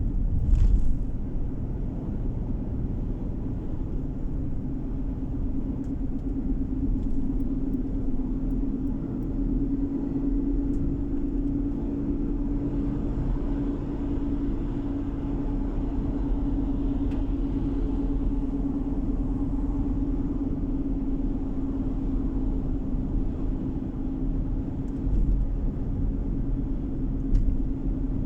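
Car driving on the road, heard from inside the cabin: steady tyre and engine noise with a low rumble and a steady hum. A short sharp knock about a second in.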